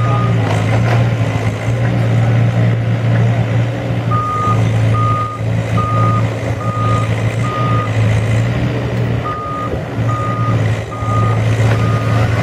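Heavy diesel machinery running steadily while its backup alarm beeps a little faster than once a second. The beeps come in two runs with a short pause between them.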